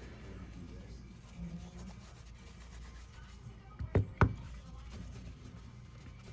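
Two sharp knocks in quick succession, about a quarter second apart, over a low steady hum and faint handling noise.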